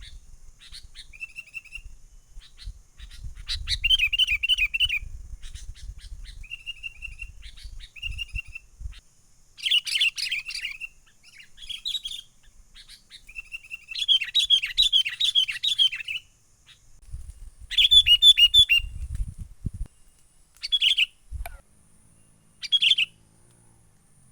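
Sooty-headed bulbul (kutilang) singing lively, repeated short phrases of bubbly whistles and trills, with short pauses between them. The loudest phrases come about ten, fifteen and eighteen seconds in. A low rumble sits under the song for the first nine seconds and again near eighteen seconds.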